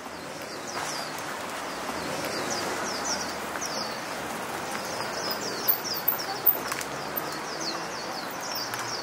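Small birds chirping over and over in short, quick falling notes, above a steady hum of street traffic. Two sharp clicks stand out briefly around six seconds in.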